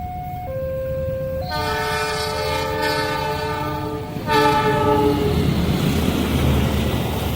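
A level-crossing warning signal alternating between two pitches, then a locomotive's multi-tone air horn sounds a long blast about a second and a half in and a shorter second blast near the middle. A train then passes at speed with a loud rushing rumble.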